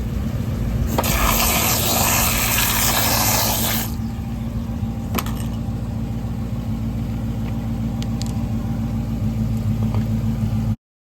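Chrysler 300 SRT's freshly swapped 6.4-litre HEMI V8 idling steadily after its first start. A loud rushing noise lies over the idle for about three seconds, starting about a second in, and the sound cuts off abruptly near the end.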